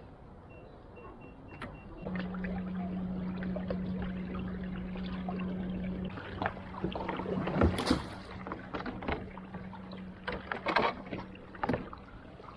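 A small electric motor hums steadily from about two seconds in, louder for the first few seconds and then softer. Sharp splashes and knocks come midway and again near the end.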